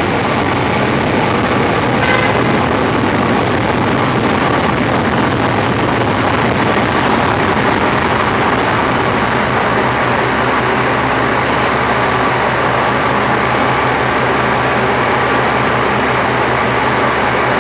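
Loud, steady rumble of elevated train and traffic noise overhead, with a low hum running under it.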